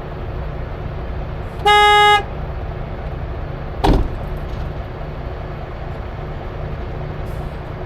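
A vehicle horn gives one short toot about two seconds in, over the steady low rumble of an idling truck engine. A single sharp knock follows about two seconds later.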